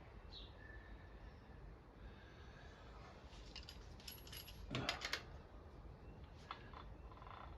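A quick run of light metallic clinks and rattles from hand tools and small metal parts being handled, with a brief ringing clink and one louder knock about five seconds in.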